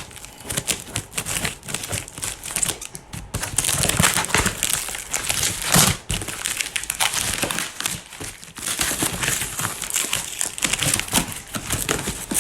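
A sturdy cardboard box being cut and torn open: irregular scraping, ripping and crinkling of cardboard and packing tape.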